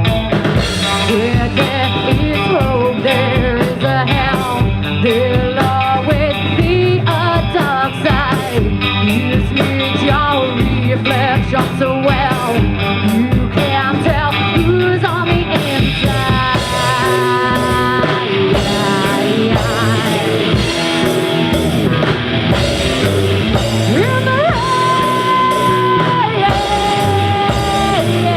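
Live rock band playing an instrumental section, a lead electric guitar soloing over drums and bass, with long bent notes held in the second half.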